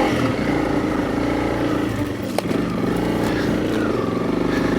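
Honda CRF300 Rally's single-cylinder four-stroke engine running at low revs in a low gear, its note dipping and rising as the bike picks over rough ruts. A single sharp knock about halfway through.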